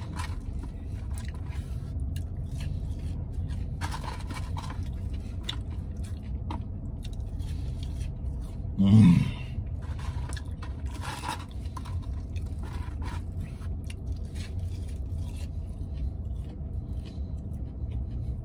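A person chewing and crunching crispy food, a fried chicken-style sandwich and sweet potato fries, with scattered scrapes and clicks from a takeout tray, over a steady low rumble. A short, louder vocal sound comes about nine seconds in.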